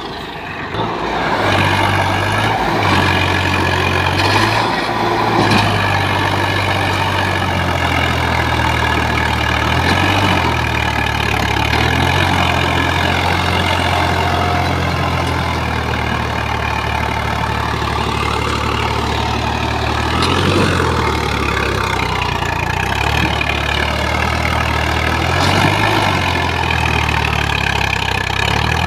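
Swaraj 855 tractor's diesel engine running under load, with its note shifting up and down several times as the throttle changes.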